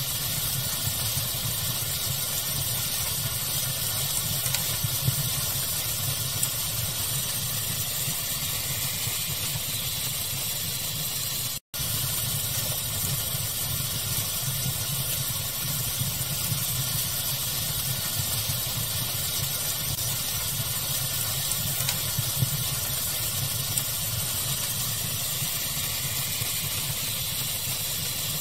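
Steady pink-noise hiss with a fire crackling through it, a few small pops standing out. The sound drops out completely for an instant about twelve seconds in.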